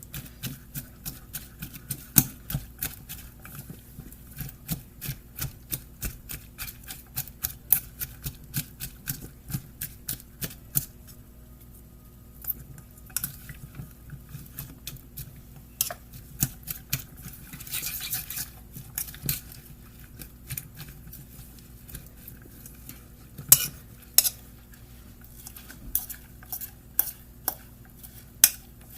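A utensil clicking against a bowl while mixing shredded potatoes into beaten egg. The taps come quick and even, about three a second, for the first third, then stop briefly and turn to slower, scattered clinks.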